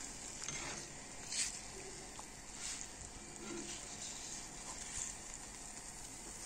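Beignet dough frying in hot oil in a pan, a steady sizzle. A few light taps or scrapes of a spatula come as the beignets are turned over.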